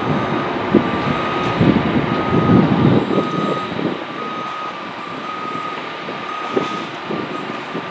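Construction vehicle's back-up alarm beeping at an even pace over the rumble of heavy machinery, with a louder stretch of rumbling and clatter in the first half.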